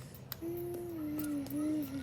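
A simple tune of smooth held notes, stepping between a few pitches.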